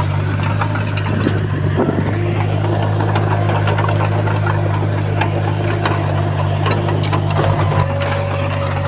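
Diesel engine of a heavy earthmoving machine running steadily, with scattered short clanks and knocks over it.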